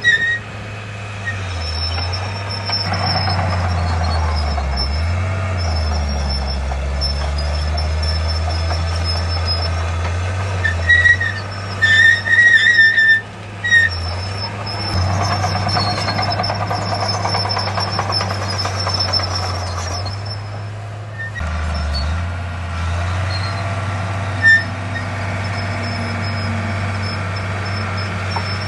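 Heavy diesel earthmoving machinery (bulldozer and dump trucks) running steadily, with a low drone that rises and falls with load and a thin high whistle over it. About halfway through, a high-pitched beeper sounds for a couple of seconds.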